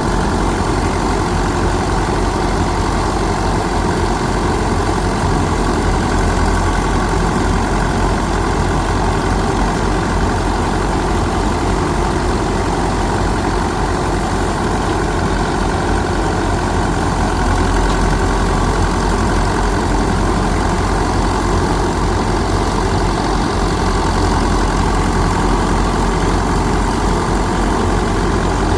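An engine-driven machine running steadily at constant speed, a low hum under a broad even noise, with no change through the stretch.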